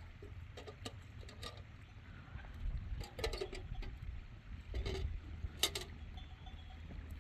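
A few irregular knocks and rustles, the sharpest about three seconds in and again near six seconds, over a low steady rumble.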